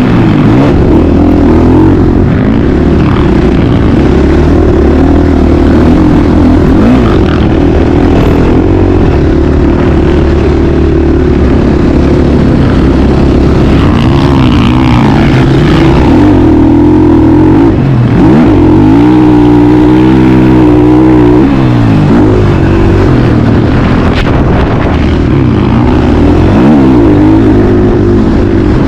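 Motocross bike engine running hard, its revs rising and falling again and again as it is ridden. There is a longer, even climb and drop in pitch around two-thirds of the way through.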